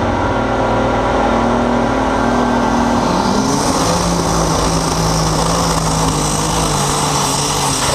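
Light super stock pulling tractor's engine running loud, its pitch climbing steeply about three seconds in and then holding higher as it revs up.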